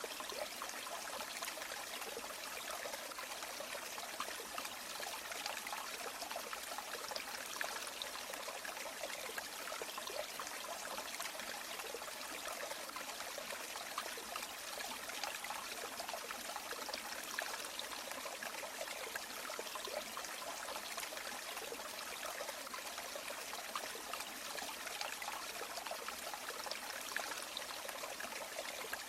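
River water flowing over stones, a steady rushing and trickling with no breaks.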